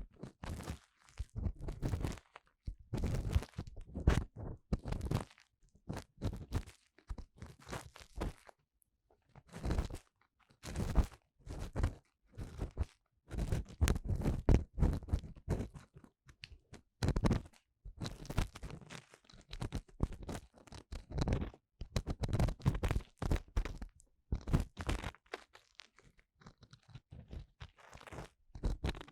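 An ear-cleaning tool scraping and rubbing inside the silicone ear of a 3Dio binaural microphone, in close scratching strokes that come in irregular runs with short pauses between them.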